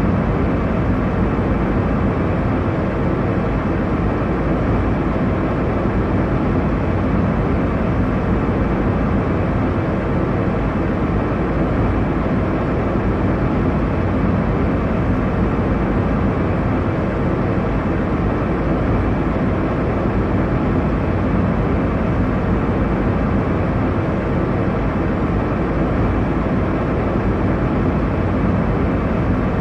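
Airliner cabin noise in flight: a steady, deep rushing hum of engines and airflow, unchanging throughout.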